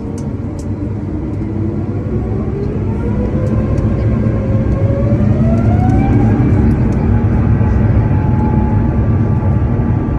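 Airbus A350's Rolls-Royce Trent XWB turbofan engines spooling up for takeoff: a deep rumble under a whine that rises in pitch over a few seconds, then holds steady at high thrust.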